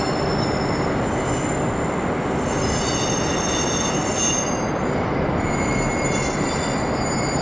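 Container freight train running slowly with a steady rumble under a high, multi-toned squeal from its wheels and brakes, typical of a train braking as it pulls into a station.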